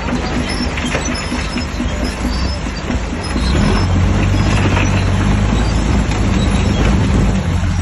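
Shantui DH17C3 bulldozer's diesel engine running as it works, with a steady low drone that gets louder about three seconds in.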